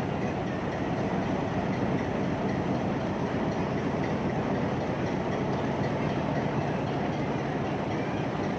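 HBU-20 diesel-electric locomotive running with a steady, unchanging engine drone and rail noise.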